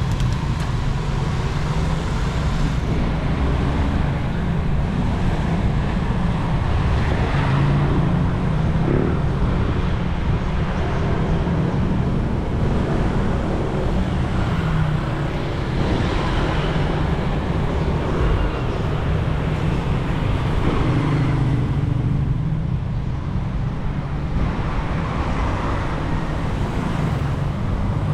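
Steady city road-traffic noise: a continuous rumble of passing cars and other motor vehicles with a low engine hum.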